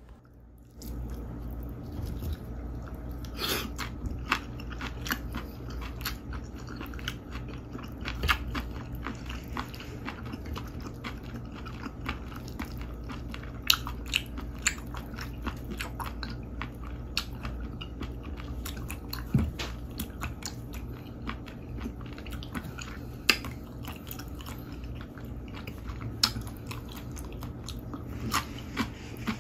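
Close-up ASMR chewing of chopped live octopus (sannakji tangtangi) with cucumber strips, heard as many sharp clicks and crunches scattered throughout. A low steady hum runs underneath.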